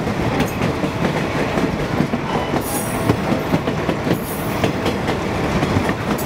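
Napa Valley Wine Train passenger car rolling along the rails, heard from inside the dining car: a steady rumble and clatter of the wheels. Two brief high-pitched wheel squeals come about three and four seconds in.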